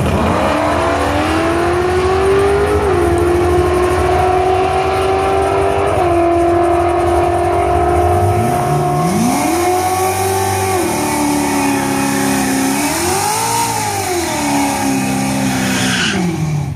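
Car launching hard from a standing start down a drag strip, its engine note rising and stepping down at each upshift as it pulls away. From about halfway on, an engine revs up and falls back twice, and the sound cuts off suddenly near the end.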